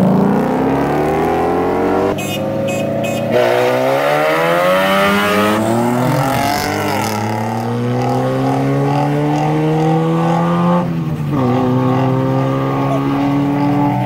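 Street-racing cars accelerating hard from a launch, engine notes climbing in pitch and dropping back several times as they shift up through the gears.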